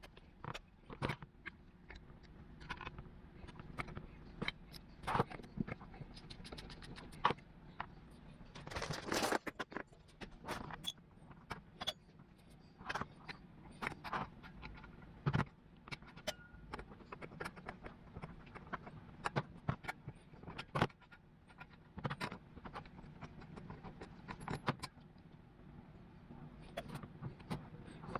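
Handling noises: scattered, irregular clinks, taps and scrapes as an old brass fire extinguisher and small metal objects are picked up, turned and set down. A longer, louder scraping rustle comes about nine seconds in.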